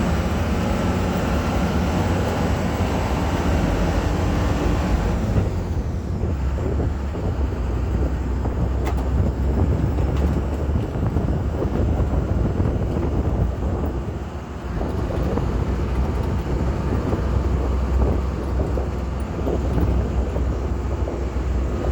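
A duck boat's engine drones steadily as the amphibious vehicle travels, under a low rumble. The hiss of wind or motion over the top fades away about five seconds in.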